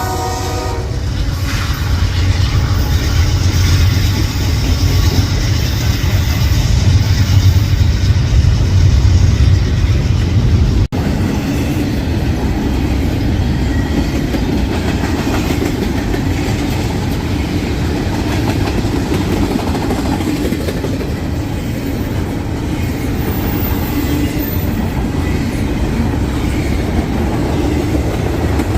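Freight train rolling past, its cars making a steady rumble of wheels on rail with some clickety-clack. The locomotive horn trails off in the first second. There is a brief break about eleven seconds in, and the rolling continues after it.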